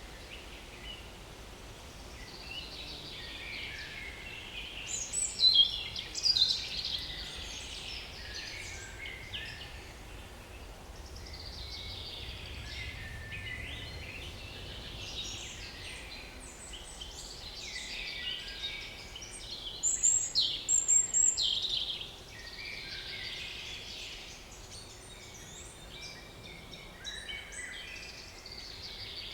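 Several small woodland songbirds singing at a forest edge, song phrases overlapping one another, with louder nearby phrases about five seconds in and again around twenty seconds in.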